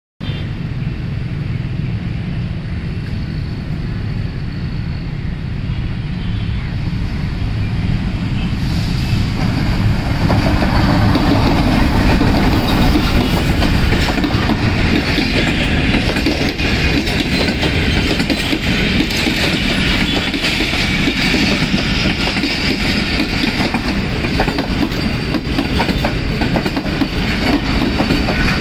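Pakistan Railways passenger train passing close by: a steady rumble of the coaches with wheels clattering over the rail joints. It grows louder about ten seconds in.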